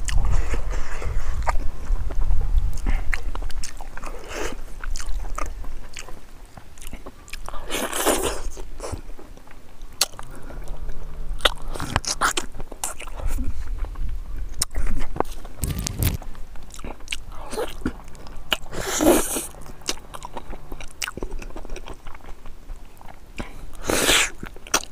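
Close, wet chewing and lip-smacking of someone eating pig trotters and rice by hand, with many small mouth clicks and three louder bites spread through.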